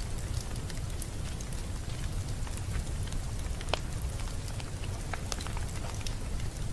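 Wood fire in a fireplace crackling, with irregular sharp pops over a steady low rumble of the flames, and one louder pop a little past halfway.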